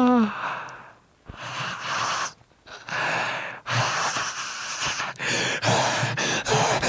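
A man's laugh, starting with a 'ha' that falls in pitch and breaking into a series of wheezing, gasping breaths in separate bursts. About four seconds in, the bursts give way to a denser, choppy hiss.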